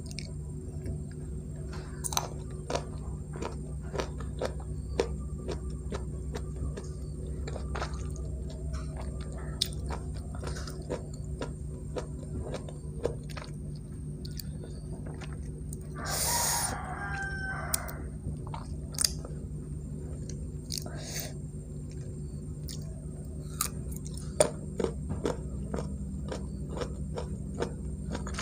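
Close-up chewing of firm mango slices dipped in rujak sauce: many small crisp crunches and wet mouth clicks, with a louder rushing sound lasting about a second roughly halfway through.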